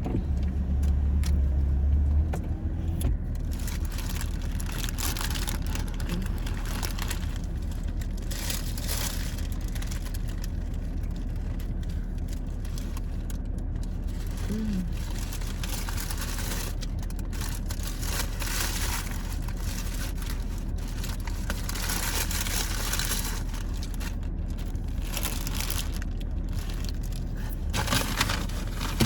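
Chewing and crinkling of fast-food wrappers inside a car, over a steady low hum, with a louder low rumble in the first two seconds.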